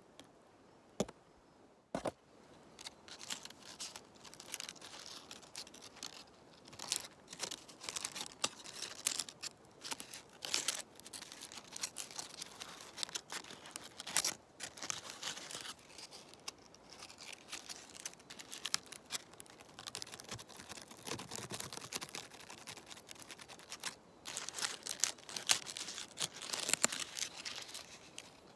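Close-up crackling and rustling of dry leaves and spruce twigs being handled, full of small sharp crackles. It is preceded by two separate sharp snaps, about one and two seconds in.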